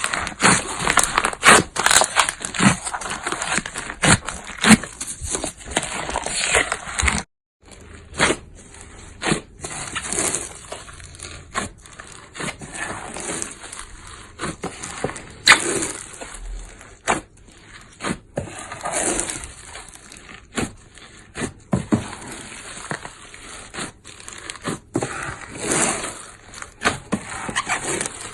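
Hands kneading a large lump of slime, with dense, irregular popping and crackling clicks as it is squeezed and folded. The sound breaks off briefly about seven seconds in, then resumes somewhat quieter.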